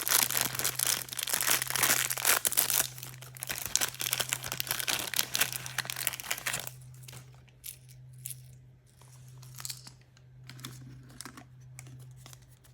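Toy packaging being torn open and crinkled by hand: dense, loud crackling and tearing for about the first six seconds. It then drops to quieter, scattered rustles and clicks. A low steady hum runs underneath.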